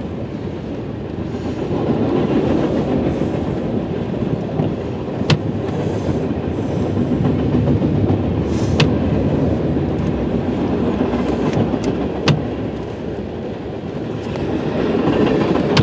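Freight cars of a CN freight train rolling past: a steady rumble of wheels on the rails, with three sharp clacks a few seconds apart.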